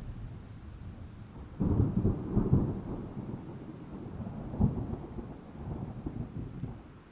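Thunder: a sudden loud crackling rumble about one and a half seconds in, a second sharp crack near the middle, then the rumble rolls away and fades. Steady rain falls underneath.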